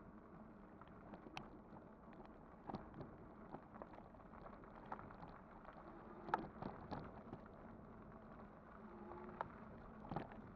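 Kugoo Kirin V5 e-bike being ridden: a faint steady hum with scattered clicks and rattles, the loudest knock about six seconds in.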